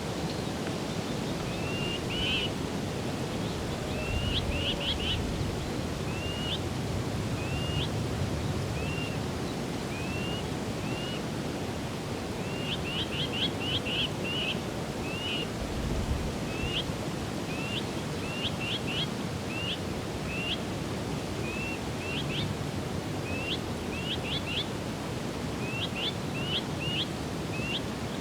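A small songbird calling over and over with short, high, rising chirps, sometimes singly and sometimes in quick runs of three or four. Under the calls is a steady rushing noise.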